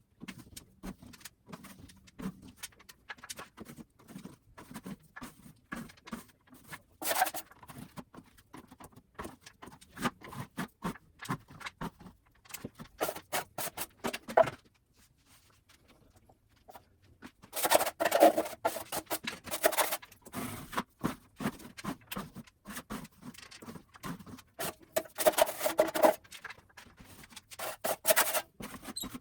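Hand scraping on a textured ceiling: small clicks and taps, then longer, louder scraping strokes in the second half, with a short quiet pause in the middle.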